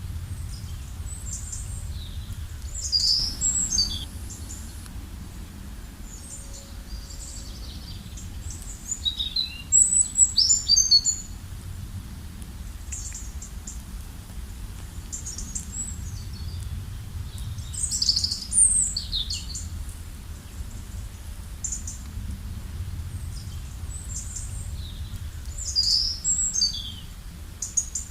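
Songbird singing: a short, fast chirping phrase repeated four times, roughly every seven to eight seconds, with softer chirps between, over a steady low rumble.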